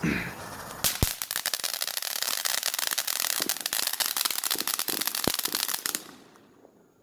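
A firework going off: a dense crackling hiss full of rapid pops, starting about a second in and dying away after about six seconds, with two sharper bangs, one near the start and one near the end.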